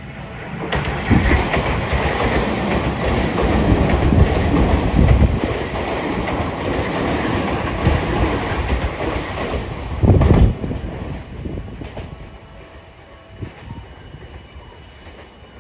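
Tokyu Oimachi Line electric commuter train going over a level crossing, its wheels rumbling and clattering over the rail joints. The noise builds about a second in, stays loud for roughly nine seconds with a few heavier thumps, and then dies away as the train clears.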